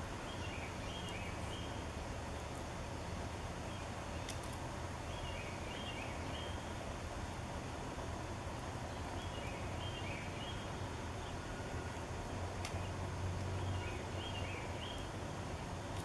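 A songbird sings a short phrase of a few quick notes, repeated four times about four seconds apart, over a steady low background rumble.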